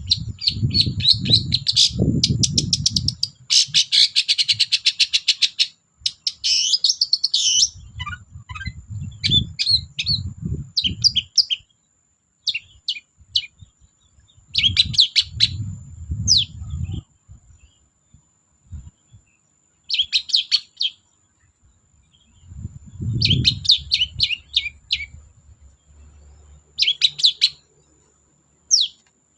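Long-tailed shrike singing in bursts of rapid, harsh chattering with short high whistled notes, broken by pauses of a second or two. Low rumbling noise sits under several of the bursts.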